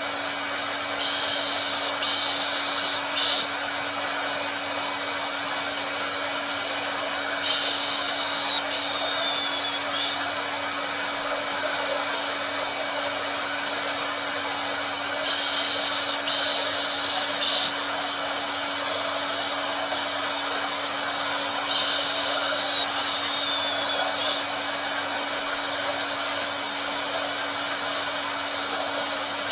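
Hair dryer running steadily: an even rush of air over a constant low hum. Short, louder, hissier stretches come back about every six to seven seconds.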